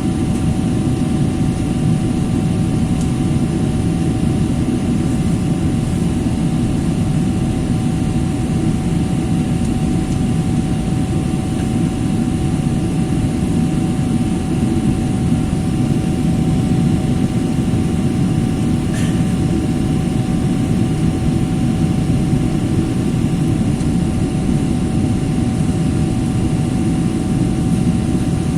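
Steady roar of a jet airliner's cabin in flight, engine and airflow noise with a faint steady hum.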